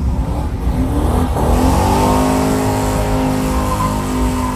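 Car engine revving: the pitch climbs about a second and a half in and the engine then holds at high revs, over a steady low rumble.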